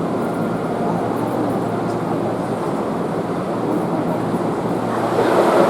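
Electric train running through a station, a steady rumbling noise that grows a little louder near the end.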